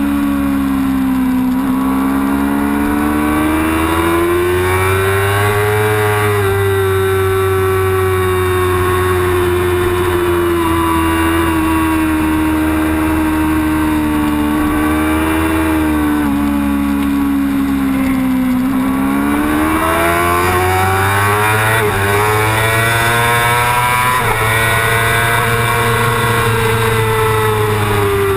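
Onboard sound of a Yamaha R6's inline-four engine at race pace, its revs climbing and falling as the rider accelerates and eases off through the corners, with steady wind rush over the microphone.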